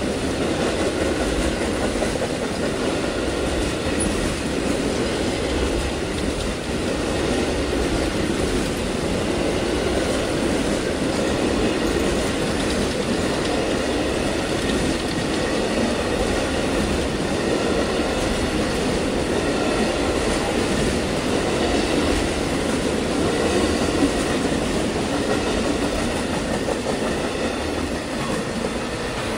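Amtrak Auto Train autorack cars rolling past, a steady loud noise of steel wheels on the rails. Near the end the last car goes by and the noise starts to fade.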